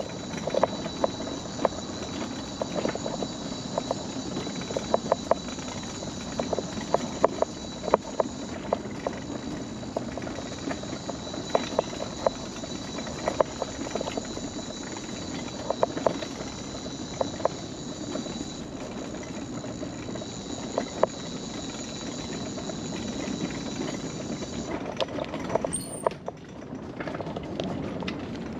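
Mobility scooter rolling along a wooden boardwalk: its wheels clack irregularly over the gaps between the deck boards, over a steady high electric-motor whine that cuts off about 25 seconds in.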